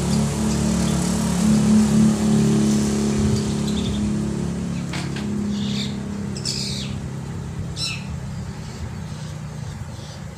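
A steady low engine hum, slowly fading, with three short harsh calls from a black-winged myna (jalak putih) in the second half.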